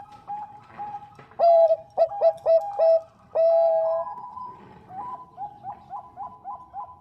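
Bangkok-strain zebra dove cooing. Soft, quick coos repeat about three times a second throughout. Over them come loud phrases: a long coo followed by a rapid run of short coos, then another long held coo.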